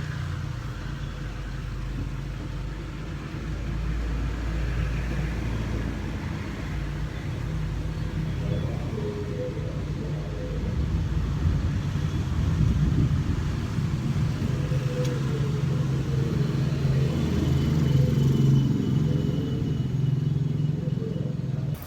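An engine running with a steady low rumble, growing louder in the second half.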